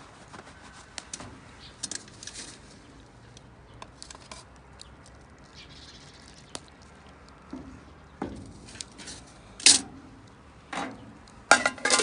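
Camp cooking gear being handled: irregular light clinks and knocks, the loudest a sharp one about ten seconds in and a quick cluster near the end.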